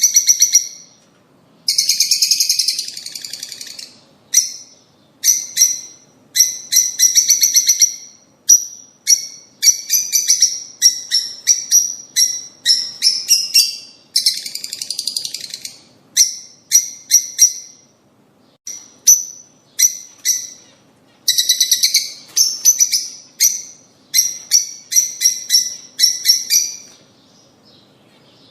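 Lovebirds (rosy-faced and Fischer's) chirping: loud, shrill, high-pitched calls in quick runs of short notes, with a few longer raspy bursts and short pauses between runs.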